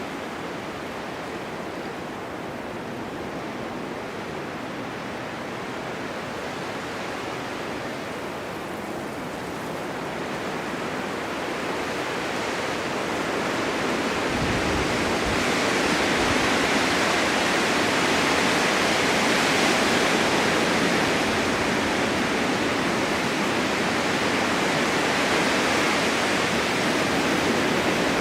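Blizzard wind blowing snow, a steady rushing noise that swells about halfway through into stronger gusts.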